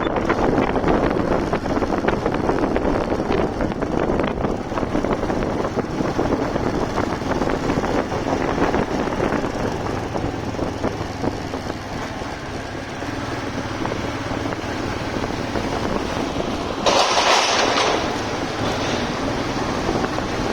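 Vehicle noise on a moving motorcycle: a steady rush of wind, road and engine noise, with a louder rush lasting about a second near the end.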